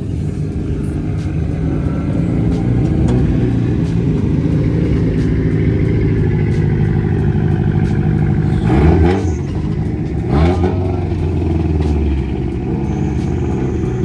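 Car engines running steadily at close range, with an engine revved hard twice past the middle, each rev a quick climb in pitch.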